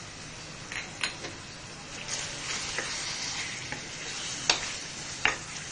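Mutton, yogurt and spices sizzling in an aluminium pressure cooker as they are stirred, with a few sharp clicks and scrapes of the spoon against the pot, the loudest in the second half.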